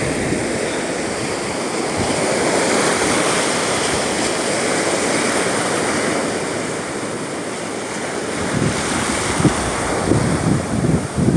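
Rough Gulf of Mexico surf breaking and washing on the beach, a steady rushing. In the last few seconds, wind buffets the microphone with irregular low thumps.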